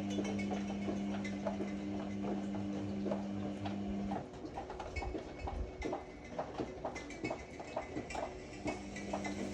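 Ariston AML125 washer-dryer drum turning in a wash cycle: the motor hums steadily while the load tumbles with irregular clicking and knocking. The motor stops about four seconds in, leaving only scattered knocks, and starts again near the end.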